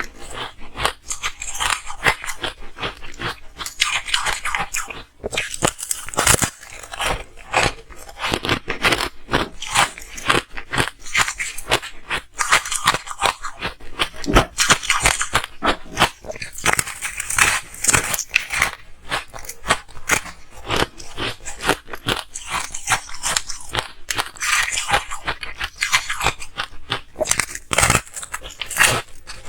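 Ice being bitten and chewed close to the microphone: a continuous run of sharp, crisp crunches and cracks.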